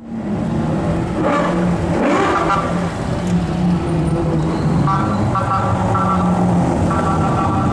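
Sports car engines running at low speed in street traffic, with steady engine drone and some rises in pitch.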